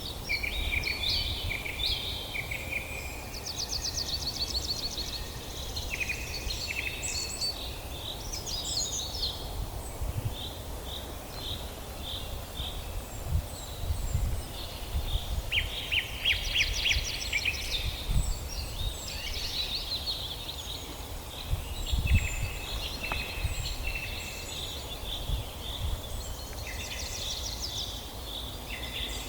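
Several songbirds singing and calling together: short trills, rapid repeated-note phrases and chirps overlapping throughout, over an uneven low rumble.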